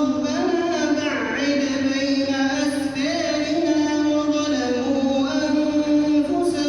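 A male Quran reciter chanting in melodic tajweed style. He holds long sustained notes with ornamented glides between pitches, with no pauses.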